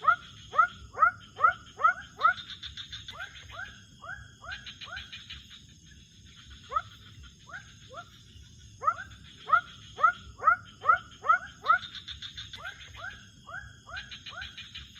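Wild animal calls at night: two runs of short, quickly rising calls, about three a second, separated by a pause, over fast high trills and a steady high-pitched whine.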